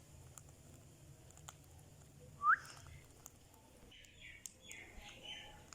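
Indian ringneck parakeet giving a single short, sharp whistle that rises in pitch, about two and a half seconds in, with softer scratchy chatter near the end.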